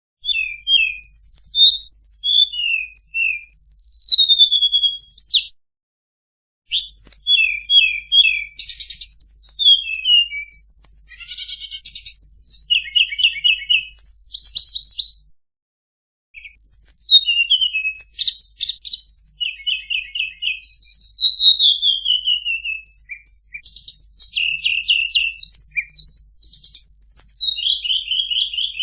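Tledekan songbird singing: a fast, varied run of high chirps, trills and short falling whistles, in three bouts broken by brief pauses about a third and a half of the way through.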